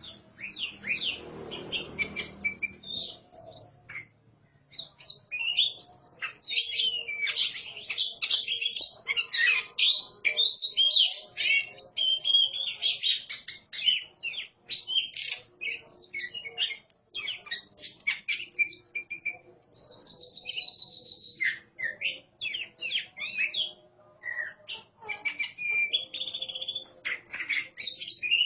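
A pair of oriental magpie-robins singing against each other: rapid, varied whistled phrases, almost without a break, with a short pause about four seconds in and a longer steady whistled note a little past the middle.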